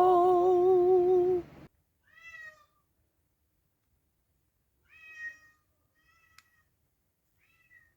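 A cat meowing: short high meows about two seconds in, around five seconds and near the end, plus a brief call with a click at about six seconds. Before that, a held musical note with vibrato cuts off about a second and a half in.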